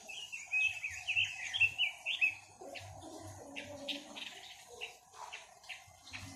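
Songbird sold in Vietnam as 'quế lâm' singing: a fast, warbled run of chirps lasting about two seconds, then scattered short calls.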